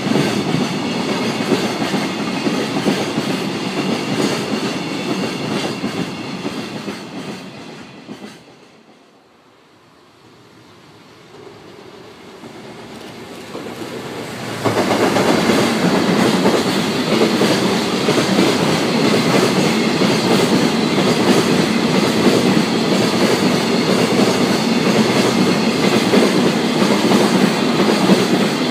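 Freight train of container flat wagons rattling past on the rails, fading away as its tail clears, with a lull about nine seconds in. Then an EF210 electric locomotive and its container train arrive with a sudden jump in level about fifteen seconds in, the wagons' wheels clattering steadily over the rail joints.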